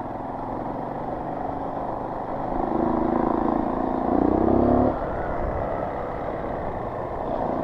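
Trail dirt bike engine running under way, then revving up with rising pitch from about two and a half seconds in and dropping back off the throttle suddenly about five seconds in.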